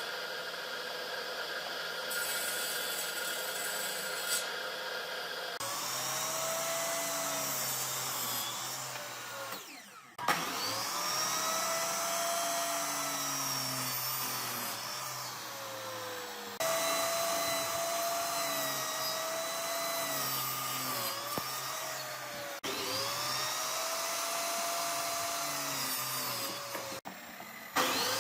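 Handheld electric power tool working wood, its motor whine sagging in pitch and recovering as it is loaded and eased off, again and again. The sound jumps abruptly several times.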